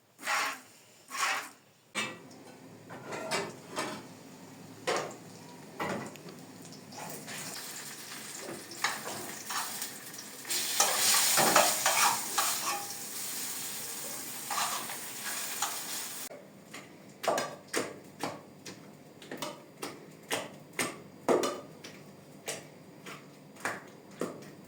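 Cooking in a pan: a utensil stirring and scraping in a series of short strokes. About ten seconds in, a burst of loud sizzling lasts several seconds and cuts off suddenly.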